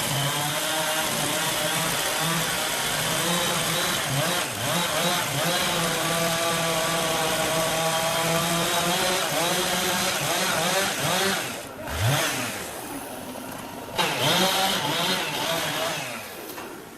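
Chainsaw engine running at high speed, its pitch wavering. It drops away about twelve seconds in, runs again briefly, then stops near the end.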